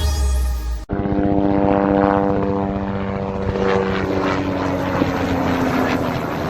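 Propeller aircraft engine droning steadily, a stack of several tones with a fast pulsing beat, after music cuts off abruptly about a second in.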